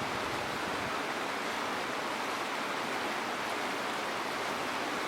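A steady, even rushing noise outdoors, with no distinct knocks or tones.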